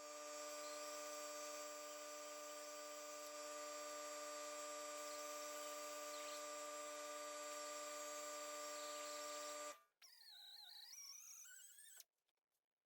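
A power tool's motor running at a steady pitch, cutting off suddenly near the end, followed by a short wavering whine.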